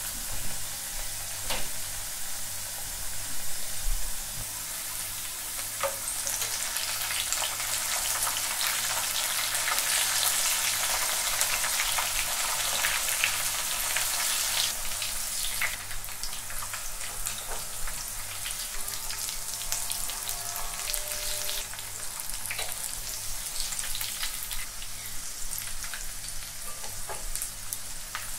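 Celeriac chips deep-frying in hot oil in a frying pan, a steady dense sizzling and crackling, with short clicks of plastic spatulas turning the pieces in the pan now and then.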